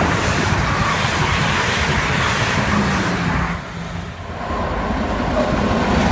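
South Western Railway Class 444 electric multiple unit running past close along the platform, its wheels and motors making a steady noise that drops away about three and a half seconds in. The sound then builds again as another electric unit approaches.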